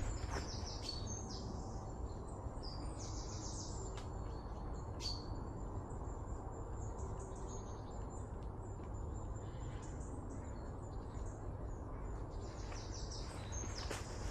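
Small birds calling in short, high chirps, in bouts near the start, around five seconds in and again near the end, over a steady low outdoor rumble.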